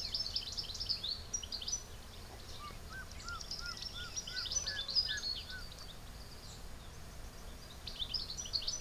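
Many small birds chirping and twittering in rapid short notes over a steady low background noise, with a separate run of about six repeated lower whistled notes a few seconds in.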